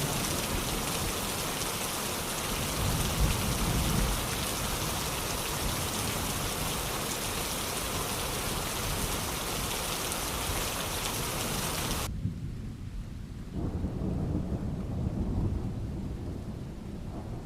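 Steady heavy rain with low rolls of thunder. About two-thirds of the way through, the rain hiss cuts off abruptly, and thunder rumbles again near the end.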